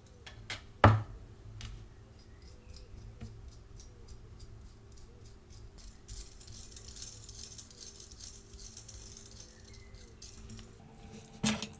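Small metal gears on the input axle of an Odhner pinwheel calculator being turned by hand, giving many light clicks and rattles as the once-stuck gears are worked free. A sharp click comes about a second in and another near the end.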